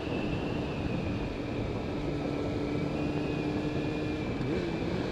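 Kawasaki ZZR600's inline-four engine running at a steady cruising note as the motorcycle is ridden, with wind rush over it; the pitch lifts briefly near the end.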